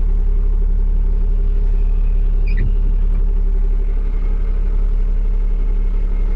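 Diesel dump truck engine idling steadily, with a brief faint squeak about two and a half seconds in.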